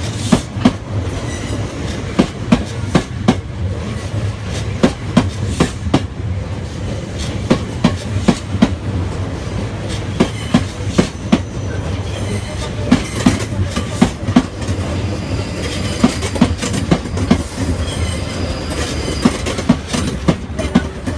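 South West Trains Class 458 electric multiple unit rolling slowly past the platform: a steady low rumble with the wheels knocking over rail joints again and again, often in pairs.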